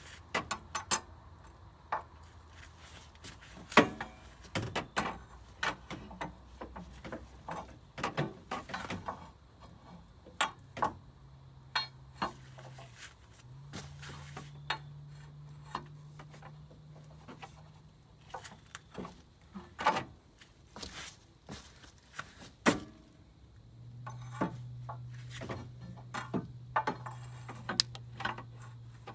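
Scattered metallic clicks and knocks of a pry bar and hand tools against the serpentine-belt tensioner and engine-bay parts, as the bar is worked into the tensioner's 3/8-inch drive. A low hum comes and goes under the knocks.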